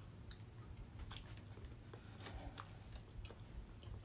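Faint chewing and small mouth clicks of people eating a soft snack cake, scattered ticks over a low steady room hum.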